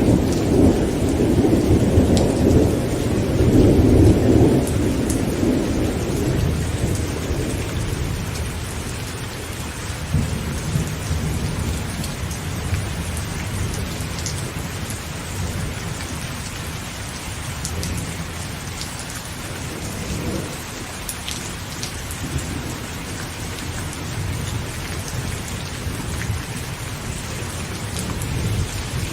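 Heavy rain pattering on a tent, with scattered sharp drop ticks, while a long roll of thunder rumbles loudly at first and fades away over the first several seconds, leaving steady rain with faint low rumbles.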